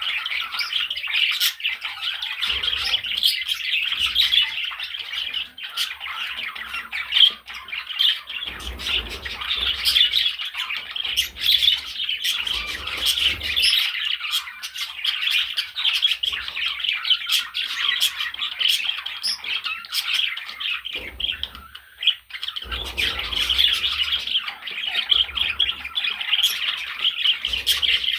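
Budgerigar chattering: a continuous stream of short squawks, chirps and warbles.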